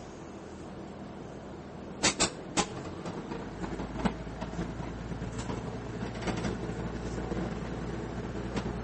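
Interior sound of a JR Ban'etsu East Line diesel railcar (KiHa 110 series). A few sharp clicks come about two seconds in, then a low rumble starts about three seconds in and slowly grows louder, with scattered light knocks.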